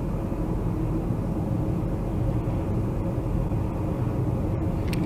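Steady engine and road noise of a moving car, a low even rumble.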